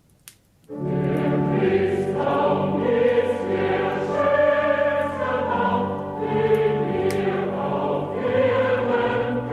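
A choir starts singing a Christmas song less than a second in, after a brief near-silent gap with a single click, and keeps singing in sustained harmony.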